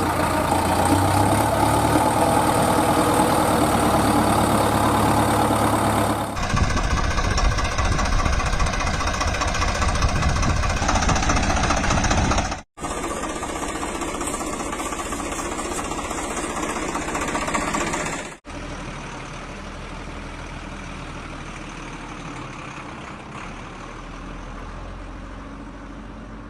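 Engines of heavy machines running steadily, heard in several separate clips, with abrupt cuts about 6, 13 and 18 seconds in; the last clip is quieter.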